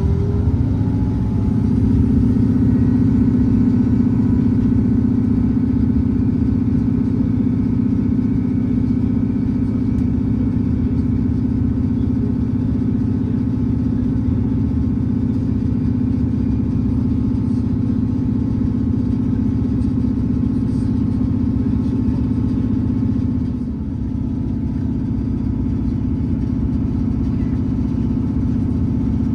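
Diesel passenger train's engine running steadily under power at line speed, heard from on board, with a brief dip in level about four-fifths of the way through.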